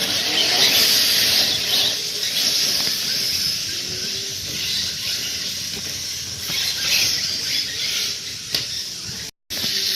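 Radio-controlled short course trucks racing: electric motors whining up and down in pitch over a steady high hiss from the running trucks. The sound cuts out for a moment near the end.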